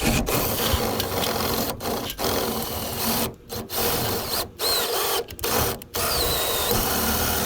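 Cordless drill with a socket adapter winding a camper jack, run in spells with several brief stops.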